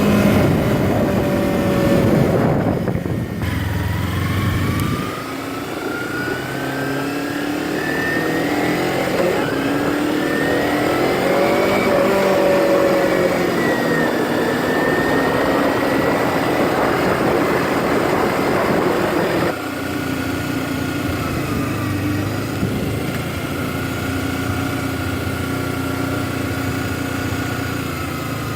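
Motorcycle engine running under throttle while riding, its pitch climbing and wavering with the throttle. About two-thirds of the way through the pitch drops suddenly, and then it runs lower and steadier.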